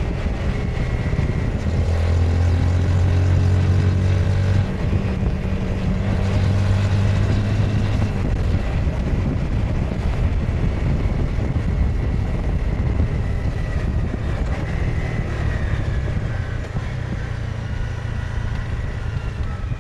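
Honda CBR 250R single-cylinder engine and exhaust pulling under way, its note holding steady and then shifting in steps a few times, with wind over the microphones. The engine eases off near the end.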